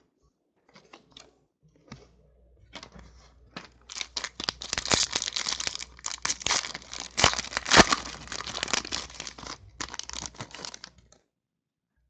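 Foil wrapper of a trading card pack being torn open and crinkled by hand, a dense crackling that builds about two seconds in and stops sharply near the end.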